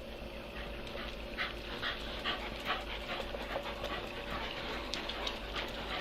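Dog panting after running, a steady train of quick breaths at about two to three a second.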